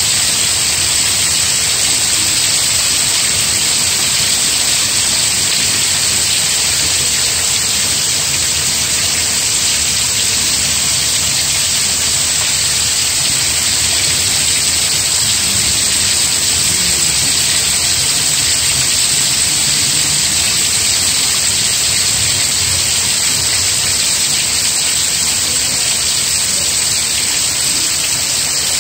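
Steady rain falling, an even, unbroken hiss with no changes in strength.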